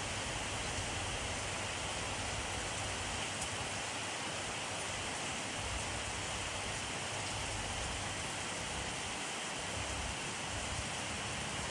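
Steady rain falling on a surface, a continuous even hiss of many raindrops with a soft low rumble underneath.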